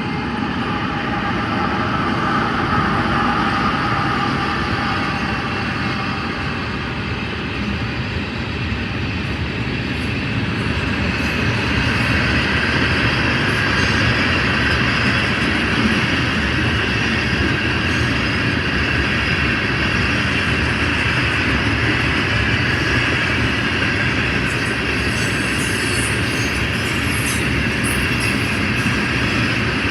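Herzog ballast train rolling past: a steady rumble of steel wheels on the rails, with faint squealing tones over it, growing a little louder about ten seconds in.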